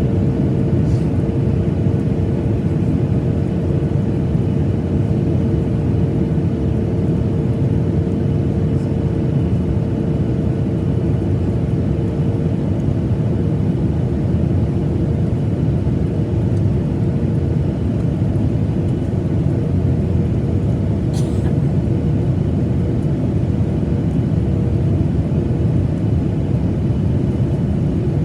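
Steady cabin noise of a Boeing 737-900ER airliner in flight: a constant low rumble of engines and airflow with a steady hum tone, and a faint click about three-quarters of the way through.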